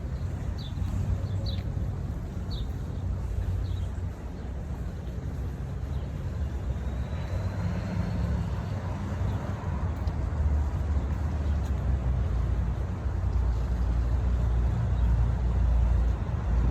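A bird chirps about five times, short and high, in the first few seconds, over a steady low outdoor rumble.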